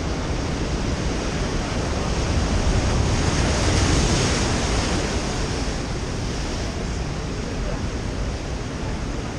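Ocean surf breaking on the beach, a wave building to its loudest about four seconds in and then easing off, with wind rumbling on the microphone.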